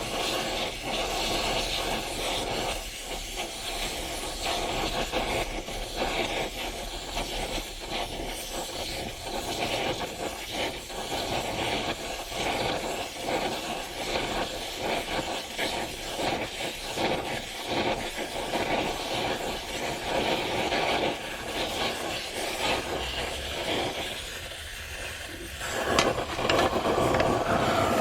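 Gas torch flame hissing steadily while heating small steel T-nuts to red heat for case hardening. Near the end it drops briefly, then a sharp click and the flame runs louder.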